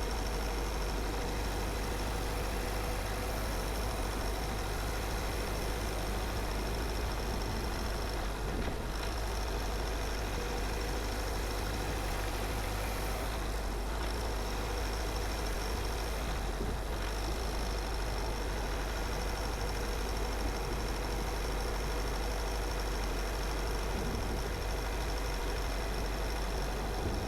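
A car driving, giving a steady, unchanging engine and road noise that is heaviest at the low end, with a thin high whine over it.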